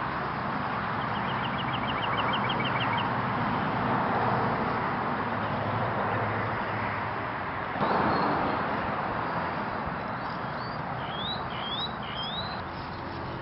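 Small songbirds calling outdoors over a steady rushing background noise: a quick dry trill about a second in, and three short rising chirps near the end.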